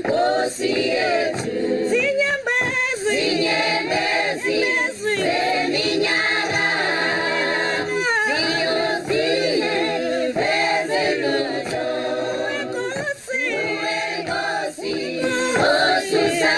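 Choir singing in close harmony, largely unaccompanied.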